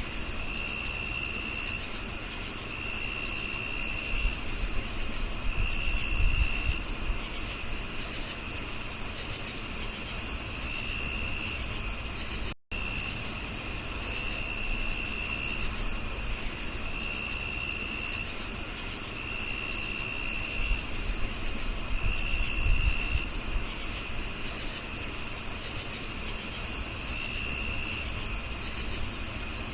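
Crickets chirping: a steady high trill under regular higher-pitched chirps about two or three a second, with a lower trill that comes and goes every second or two. The sound cuts out for an instant about twelve seconds in.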